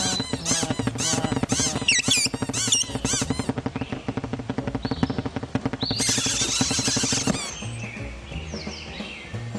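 Rapid cartoon bird chirps and chatter over a music score, thickening into a dense flurry of high twittering about six seconds in, then thinning out.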